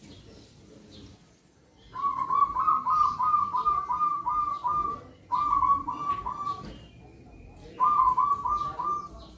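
Zebra doves (perkutut) cooing: three runs of quick, evenly repeated cooing notes, the first and longest starting about two seconds in and two shorter ones after brief pauses.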